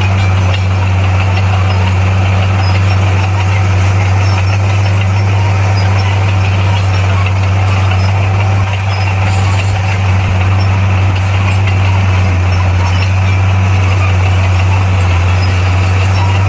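Bulldozer's diesel engine running steadily with a strong low hum and a rough mechanical clatter over it.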